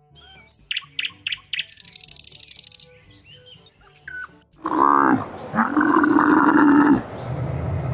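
A hawfinch gives several sharp, high chirps, then a fast buzzing trill. It is followed by a loud, drawn-out bellowing call from a dromedary camel lasting about two seconds, and then a low rumble.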